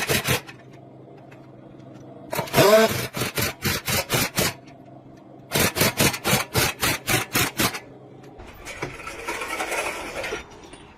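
Rapid repeated knocks, about four a second, in three bursts, with a steady low hum between them; a hiss follows near the end.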